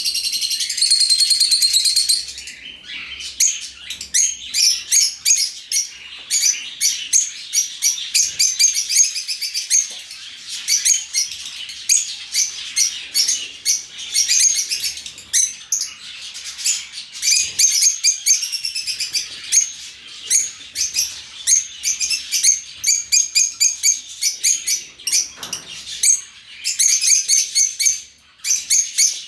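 A flock of lovebirds chirping and chattering, a dense run of rapid, shrill calls, thickest in the first couple of seconds.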